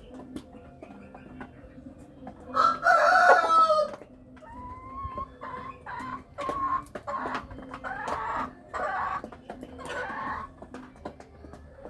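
Chickens: a rooster crows once, loud and about a second and a half long, a few seconds in, then hens keep up a string of short clucks.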